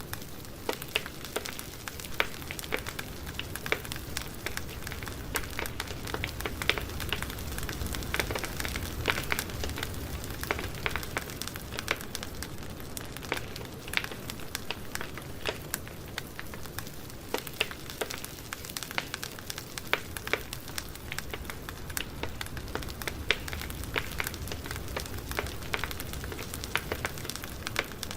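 Campfire burning: wood crackling and popping in many small irregular snaps over a low steady rumble of flame.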